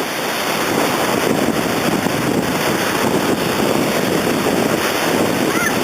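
Steady wind rushing across the microphone with water noise from the sea, without a break.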